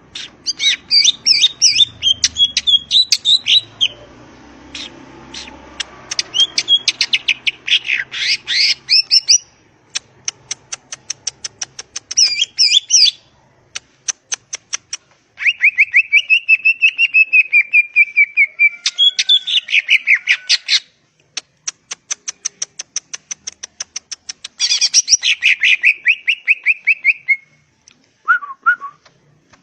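Green leafbird (cucak ijo) singing loudly in bursts: rapid-fire trills and chattering runs alternating with longer whistled phrases, broken by short pauses.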